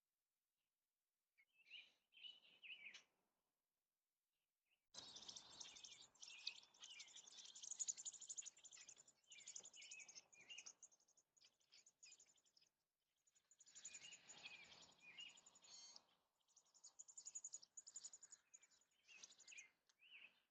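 Birds chirping and calling, high-pitched: a short burst about two seconds in, then dense chirping from about five seconds on, broken by brief silent gaps.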